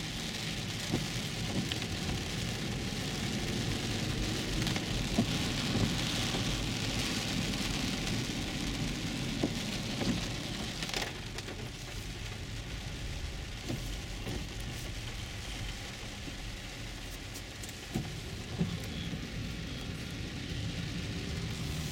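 Heavy rain falling on the roof and windshield of a moving 2011 Infiniti EX35, heard from inside the cabin as a steady hiss over a low road rumble, with scattered sharp ticks.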